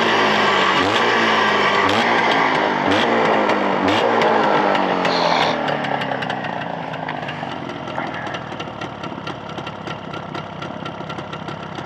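Jawa 634 two-stroke twin engine being blipped, its revs rising and falling repeatedly, then dropping back to a quieter, steady low idle a little after halfway. It is a newly rebuilt engine still being run in.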